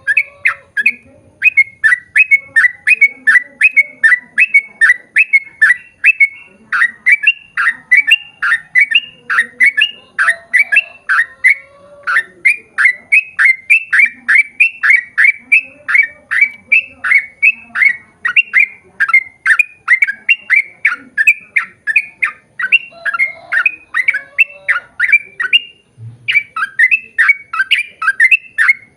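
Yellow-vented bulbul (trucukan) giving a long, fast chattering series: short, falling notes at about four a second, kept up with hardly a pause apart from one brief break near the end.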